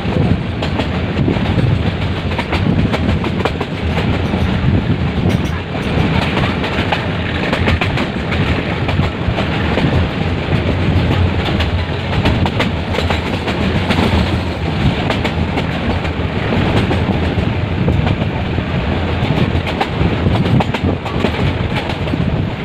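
Metre-gauge passenger train running at speed, heard from on board: a steady loud rumble with the clickety-clack of wheels over the rail joints.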